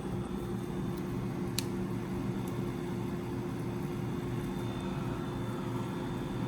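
Window air conditioners running with a steady hum, a brief click about one and a half seconds in.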